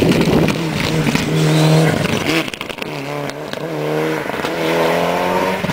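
Historic rally car's engine under hard acceleration. The engine note climbs with the revs and drops back at each gear change, several times over.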